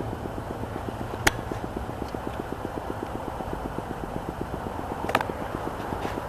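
Car engine running at low speed as the vehicle creeps along, with a fast, even ticking and a low steady rumble. Two sharp clicks stand out, one about a second in and another about five seconds in.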